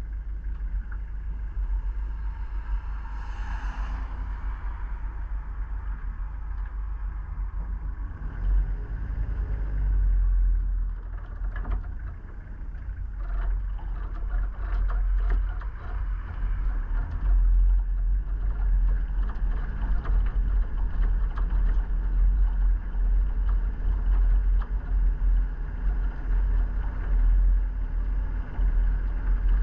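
A vehicle driving, a steady low rumble of engine and road noise that grows louder and more uneven from about eight seconds in, with a few short knocks along the way.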